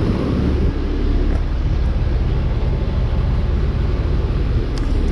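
Payne central air conditioner condensing unit running: a steady rush of the condenser fan over a low, even compressor hum.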